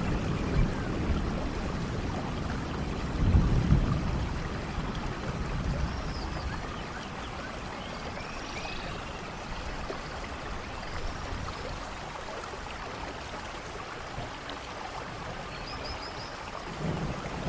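Steady rainfall in a rainforest storm, with a low rumble of thunder about three seconds in that fades away. Scattered short high chirps sound over the rain, and another rumble starts near the end.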